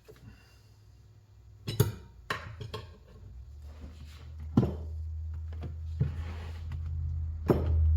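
Metal tyre tools knocking and clinking against a motorcycle wheel rim while a tyre is levered on, five sharp knocks over a low hum that grows louder from about halfway through.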